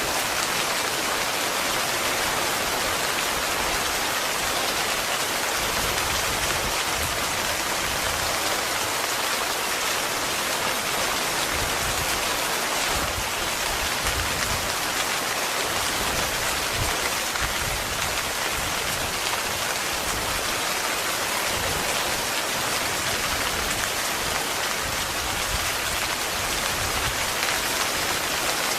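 Heavy rain falling steadily on a tent's fabric, an even, unbroken hiss of drops.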